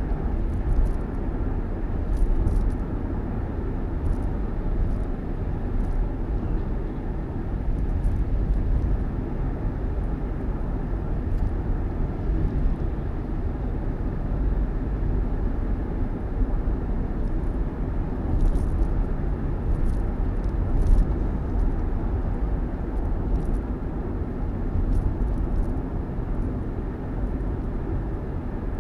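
Steady low rumble of a vehicle on the move, road and engine noise with no changes in pace, and faint light ticks now and then.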